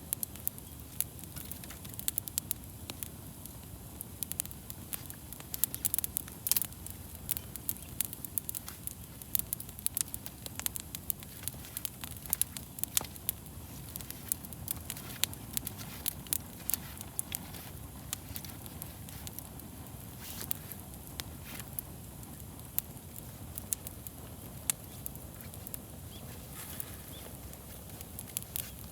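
Wood fire burning, with irregular sharp crackles and pops over a low steady rush of flame.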